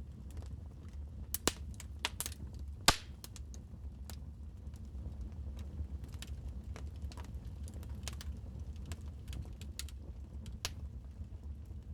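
Wood fire crackling in a fireplace: irregular sharp pops and snaps, two louder pops within the first three seconds, over a steady low rumble of the burning fire.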